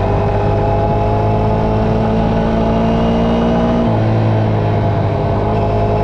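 Dirt bike engine running hard, its pitch climbing slowly for about four seconds and then dropping suddenly.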